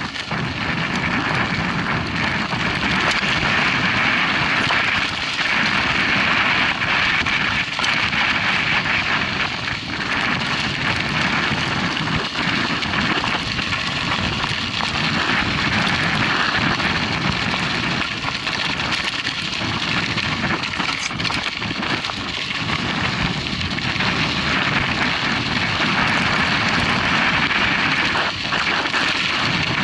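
Wind rushing over the microphone with tyres crunching on a dirt track while a mountain bike is ridden, a steady loud noise throughout.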